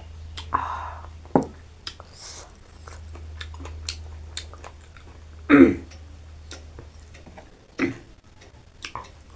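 Close-miked chewing and eating: scattered wet mouth smacks and clicks, with a louder one about five and a half seconds in. A low steady hum sits underneath for most of it.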